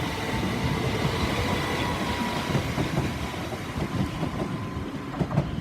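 Southern Class 377 Electrostar electric multiple unit running along the platform, its wheels clattering over the track with an irregular stream of low knocks. A thin steady whine fades out about halfway through, and the overall rumble eases slightly toward the end.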